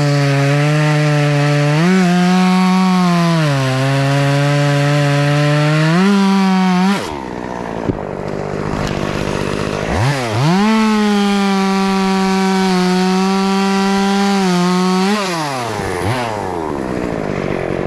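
Two-stroke chainsaw cutting wood at full throttle, its pitch sagging and rising as the chain loads and frees. About seven seconds in it drops to idle, then revs back up for a second cut a few seconds later and drops back to idle near the end.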